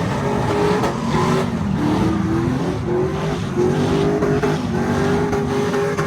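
Truck engine revving hard, its pitch climbing again and again in short rises.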